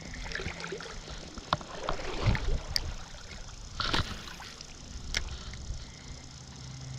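Water sloshing and swishing around an angler's waders as he wades through the river current, broken by a few sharp clicks or knocks.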